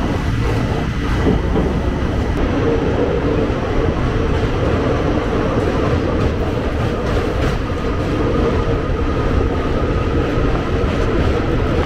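Coromandel Express passenger train running across a steel truss railway bridge: a steady, loud rumble of wheels on the rails with no let-up.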